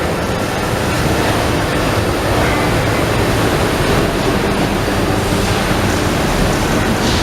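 Edwards Pearson CNC press brake running, a steady loud mechanical noise with a faint low hum underneath.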